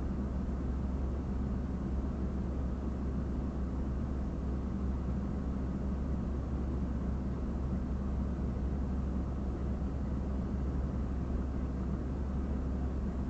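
Steady low rumble with an even hiss above it, from a parked vehicle idling.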